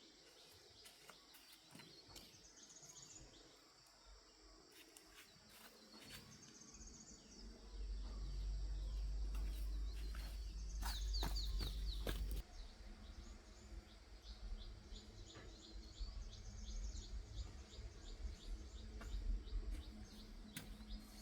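Outdoor ambience of birds chirping in repeated short high trills, with a low rumble for a few seconds in the middle.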